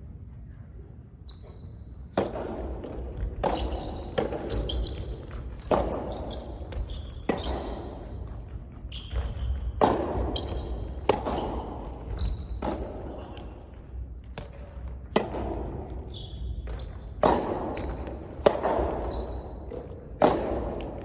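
Soft tennis rally: the soft rubber ball is struck by rackets and bounces on the court, a sharp hit every second or two, each trailed by a short echo.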